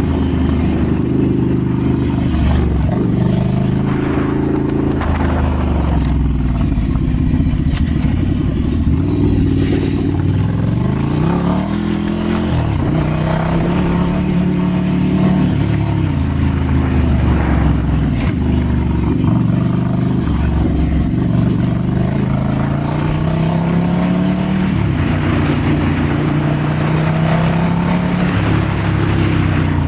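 Ducati Scrambler's L-twin engine running while riding, its pitch rising and falling again and again as the throttle opens and closes and gears change, with a few short sharp clicks.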